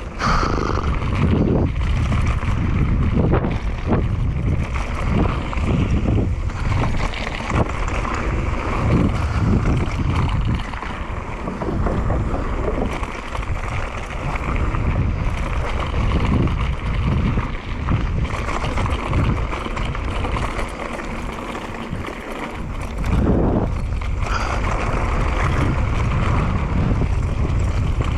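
Wind buffeting the microphone over the rumble of mountain bike tyres on a dirt trail, with frequent short knocks and rattles from the bike going over bumps; it eases a little about two-thirds of the way through, then picks up again.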